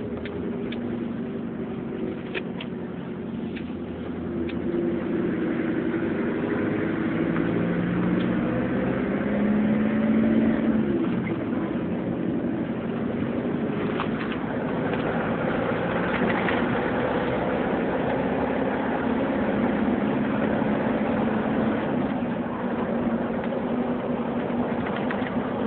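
Turbocharged car engine running, its pitch climbing gradually over the first ten seconds, dropping back, then holding steady.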